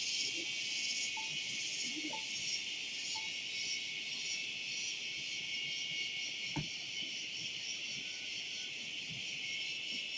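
A continuous, high-pitched chorus of insects in the forest, dense and unbroken, with a single sharp click about two-thirds of the way through.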